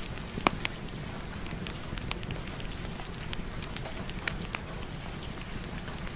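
Steady rain hiss mixed with a crackling wood fire in a fireplace, with frequent sharp pops and one louder pop about half a second in.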